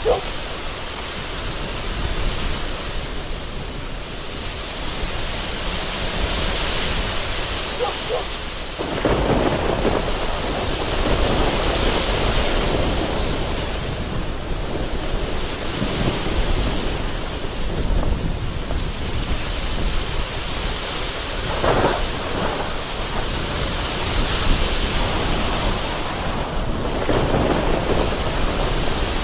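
Thunderstorm: very heavy rain hitting a window in strong, gusty wind, with thunder rolling in the background. The rain and wind swell and ease in waves, and the low rumble grows stronger about a third of the way in.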